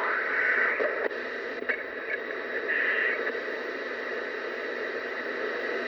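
CB radio receiver hissing with static between transmissions. Faint garbled fragments of distant stations come through near the start and about three seconds in.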